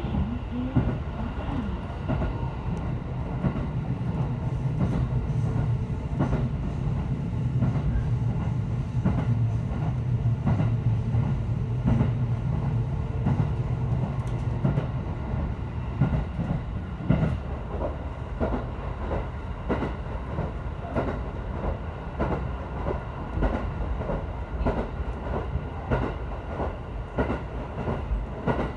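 JR 313-series electric train running, heard from inside the passenger car: wheels clacking over rail joints, with a steady low drone under them for the first half.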